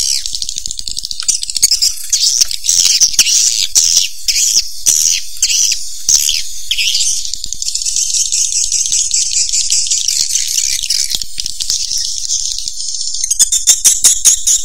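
Recorded swiftlet calls of the kind played to lure edible-nest swiftlets into a nesting house: a dense, high-pitched chattering of chirps and buzzy trills. A steadier buzzing stretch runs through the middle, and fast, regular pulsing begins near the end.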